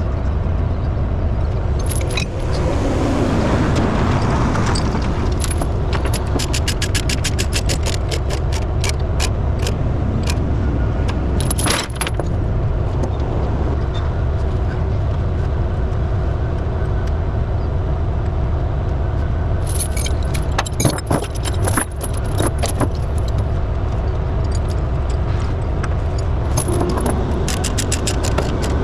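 Steel tie-down chain rattling and clinking in several bursts of quick metallic clicks as it is handled, over a steady low rumble.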